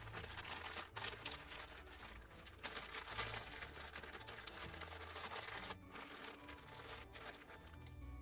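Close crinkling and rustling handling noise, made up of many small crackles and clicks, over faint background music with low held notes.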